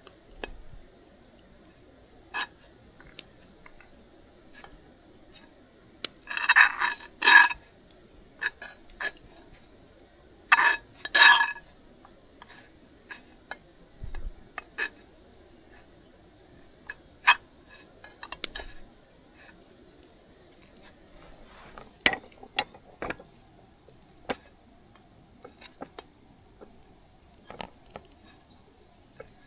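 Camp cookware and utensils being handled: scattered clinks and knocks, with two louder bouts of clattering about six and ten seconds in.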